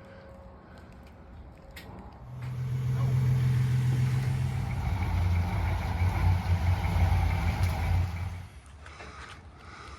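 A motor vehicle's engine running loud for about six seconds, its steady low note dropping in pitch about halfway through.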